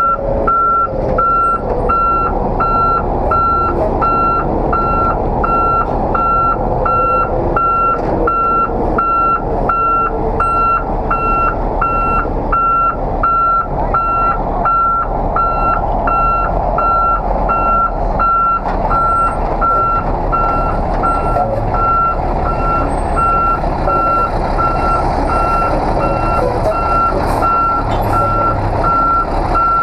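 Truck backup alarm beeping steadily, about two beeps a second, over the low running of a truck engine.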